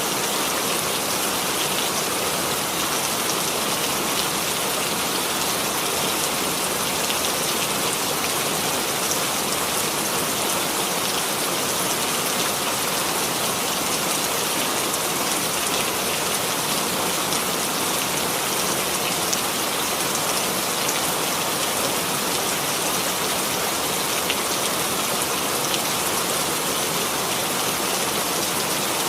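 Steady rain falling on a surface, an even hiss of many drops with no change in level.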